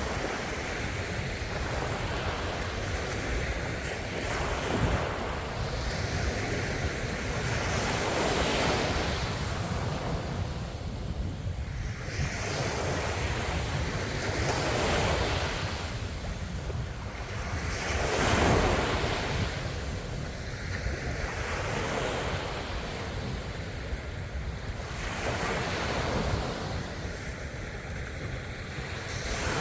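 Ocean waves breaking and washing onto a shore, the surf surging and easing every few seconds over a steady low rush.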